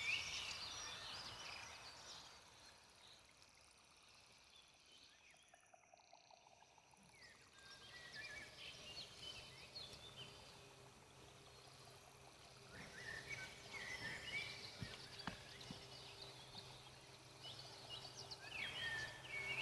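Forest birds chirping and calling in scattered bursts, faint, with a couple of small pops partway through and a faint steady low hum coming in about halfway.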